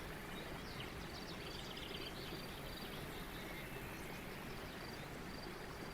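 Faint birdsong, scattered short chirps and twitters over a steady low background hiss.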